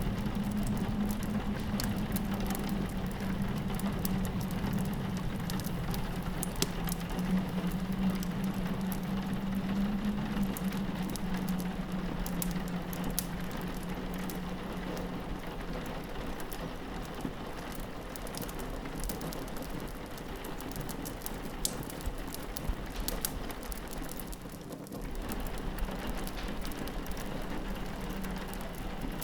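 Steady rain on a window with scattered crackles from a fireplace, over a low drone that fades out about halfway through.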